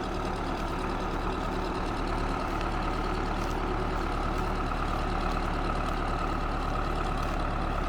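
Old tractor's engine running steadily while it mows with a rear-mounted mower attachment.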